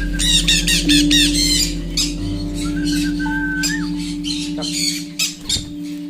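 Conures squawking: a quick run of harsh, repeated calls in the first two seconds, then scattered single calls, over background music.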